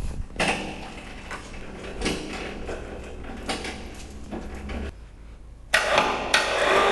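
Irregular knocks and clunks of metal being handled, with a low hum through the middle. About six seconds in, a louder run of metal clattering and banging with a ringing tone starts.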